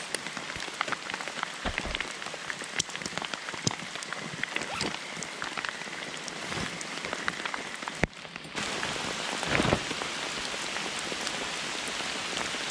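Steady rain falling on a forest floor, with many sharp individual raindrop hits close by. About eight seconds in it dips briefly and then continues as a steadier, slightly louder rain hiss.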